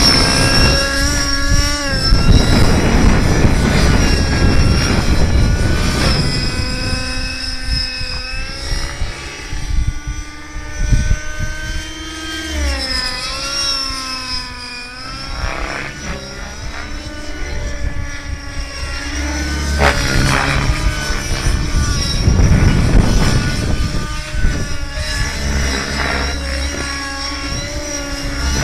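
Engine of a radio-controlled model aircraft running in flight, its pitch shifting as it throttles and passes, with a clear fall then rise in pitch about halfway through.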